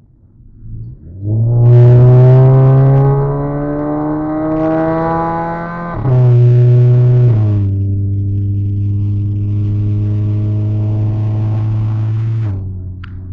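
VW Jetta 2.0 TSI's turbocharged four-cylinder engine running loud under hard acceleration. The revs climb for about five seconds, drop sharply at a gear change, climb briefly and drop again, then hold a steady drone before easing off near the end.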